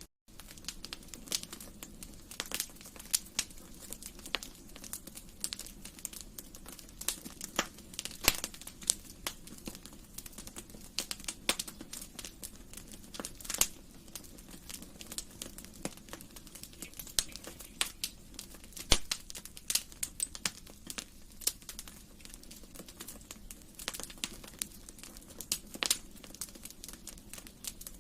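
Wood fire crackling in a fireplace: irregular sharp pops and snaps, some loud, over a soft steady noise of the burning.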